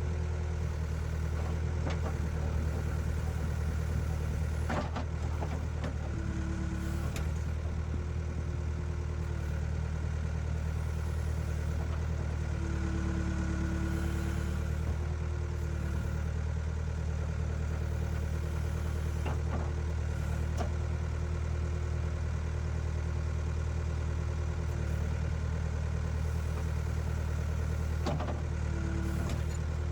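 The engine of heavy ditch-clearing equipment runs steadily with a deep hum. Its pitch dips briefly twice, and a few sharp knocks and clanks sound over it.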